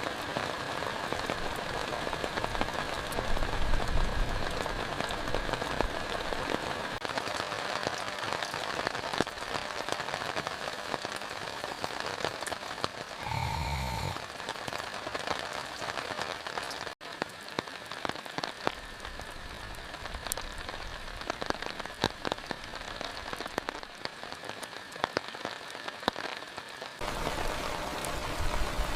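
Steady heavy rain, with many separate drops ticking sharply on a nearby surface. About halfway through comes a brief, low sound lasting about a second.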